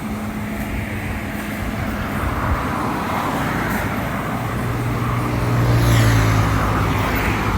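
Road traffic: a vehicle's engine hum grows louder and passes about six seconds in, over steady traffic noise.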